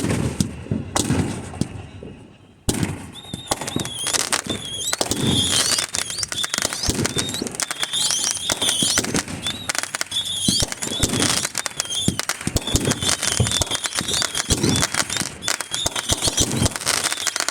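Fireworks going off: a few deep booms among dense popping and crackling, which grows thick about three seconds in, with a high wavering whistle running through the crackle.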